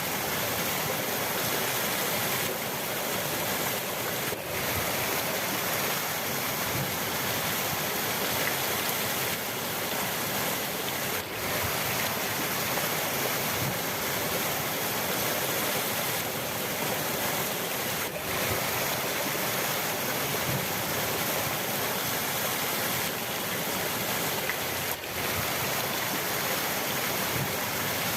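River water rushing in a steady, unbroken stream.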